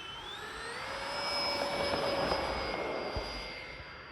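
Radio-controlled A-10 Thunderbolt model airplane flying, its engines giving a high whine that rises in pitch during the first second and then holds steady. It grows louder toward the middle and then fades.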